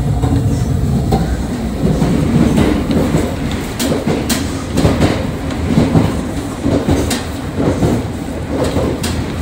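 Running noise of a JR 681 series 2000 electric multiple unit heard inside the car's vestibule: a steady low rumble of wheels on rail with scattered sharp clicks and rattles.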